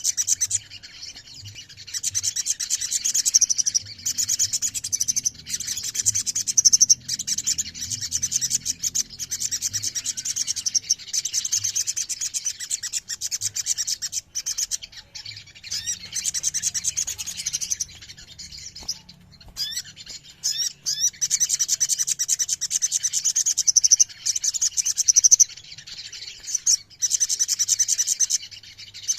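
A chorus of several little spiderhunters (sogon) calling together: rapid, high-pitched trilling chatter in bursts of a few seconds, broken by short pauses.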